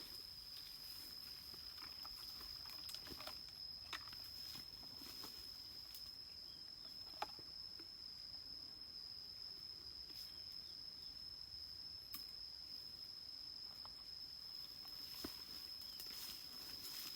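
Faint outdoor ambience: a steady, unbroken high-pitched insect trone, with scattered small clicks and rustles of handling and movement close by.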